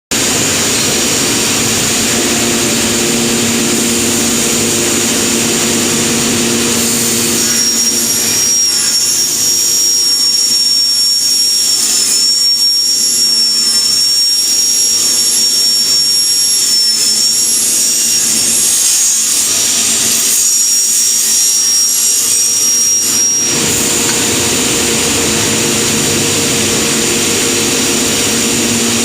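Automatic cutting machine running: a loud, steady motor noise with a low hum, joined from about a quarter of the way in until near the end by a high, slightly wavering whine that then stops.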